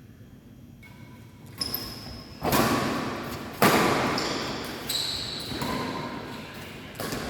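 A badminton rally: rackets striking the shuttlecock about once a second, each hit sharp and echoing in a large hall, with short high squeaks between some of them.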